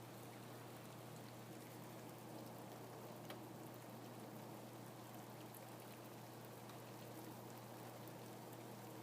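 Faint steady rain, an even hiss with scattered small drop ticks, one clearer tick about three seconds in.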